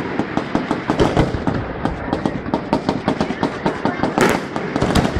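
Fireworks going off in a rapid, dense string of cracks, many a second, with two louder bangs near the end.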